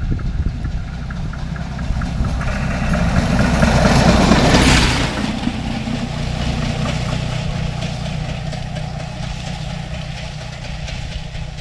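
Railway locomotive's engine running steadily with a low drone, while a loud rushing hiss builds and stops sharply about five seconds in.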